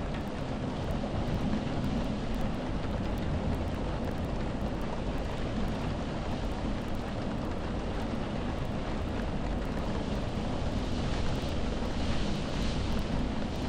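Steady rain with wind: an even, unbroken hiss over a low rumble, growing a little brighter near the end.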